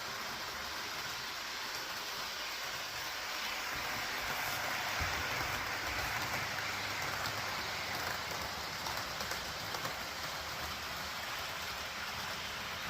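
A train running along its track, a steady rushing noise that swells a little about midway and then eases back.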